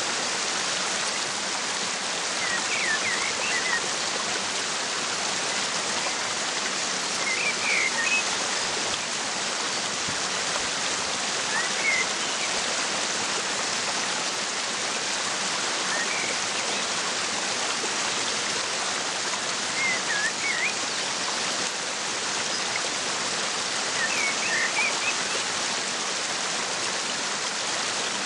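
Waterfall's steady rush of water, with a bird giving short clusters of quick high chirps about every four seconds.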